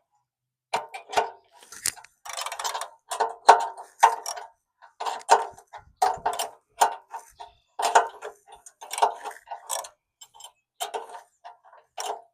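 Ratchet wrench clicking in short back-and-forth strokes, tightening the bolts of a steel bumper.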